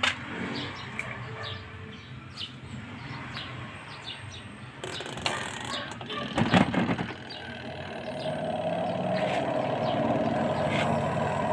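A few knocks and clicks about six seconds in. Then, about eight seconds in, the Micromatic spin dryer's motor starts and runs with a steady hum, the machine working again after its door switch and wiring were repaired. Birds chirp faintly in the background.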